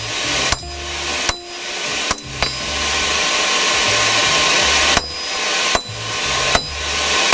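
Hammer blows on hot rebar stock on an anvil, under a second apart, with a pause of about two and a half seconds in the middle, over the steady rush of the forge. The stock is being flattened out to make a crossguard.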